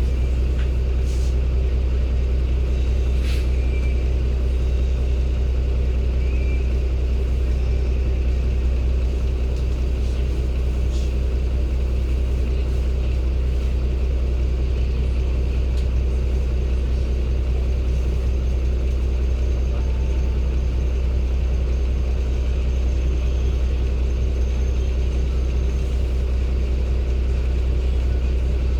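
Cummins ISB six-cylinder diesel engine (Euro 6, 280 PS) of a 2016 Daewoo NEW BS090 city bus running steadily with a deep low rumble, air conditioning off. A few faint light clicks now and then.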